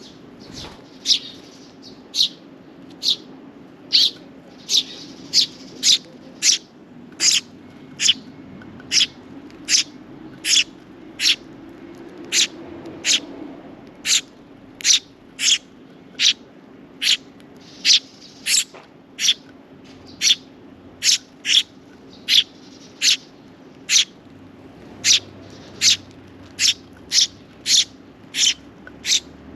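Sparrow chirping over and over: single short, sharp chirps a little more than one a second, kept up without a break.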